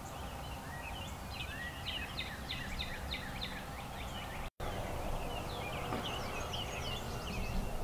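A bird singing runs of quick whistled notes, each sliding downward, about four a second, over a steady low rumble of outdoor background noise. The sound drops out for an instant a little past halfway, and then a second run of notes follows.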